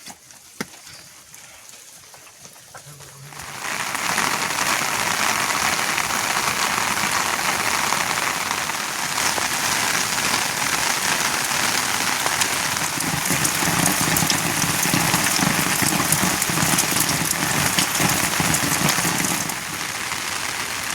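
Heavy monsoon rain falling, a steady dense hiss that comes in suddenly and loud about three and a half seconds in, after a quiet start broken by a single click.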